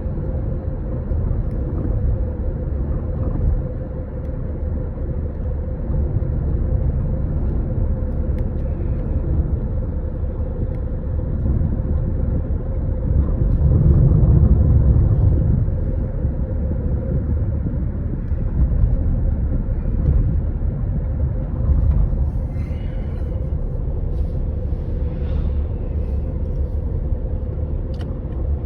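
Toyota Estima ACR55W running with a steady low rumble and a faint rattle from the steering: the clatter of a worn No. 2 intermediate steering shaft. The rumble swells for a few seconds about halfway through.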